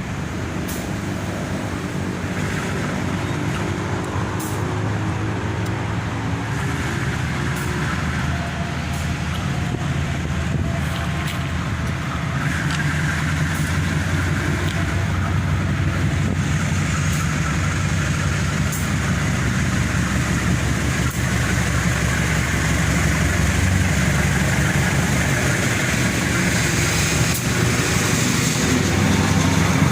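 A heavy engine running steadily with a low hum, slowly growing louder.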